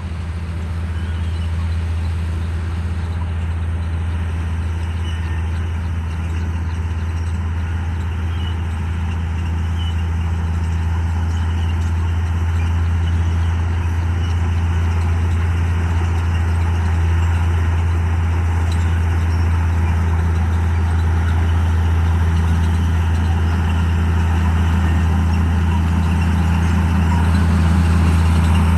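Komatsu D58E bulldozer's diesel engine running with a deep, steady drone that grows gradually louder.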